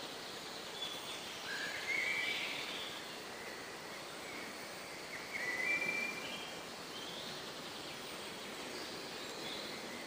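Birds singing: two louder short phrases about two and six seconds in, with fainter high chirps in between, over a steady background noise.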